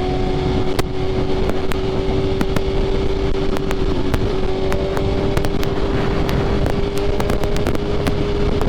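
BMW S1000RR inline-four sport bike with Arrow titanium headers and an SC Projects exhaust cruising, its engine holding one steady note that creeps slightly higher in pitch, under wind rush.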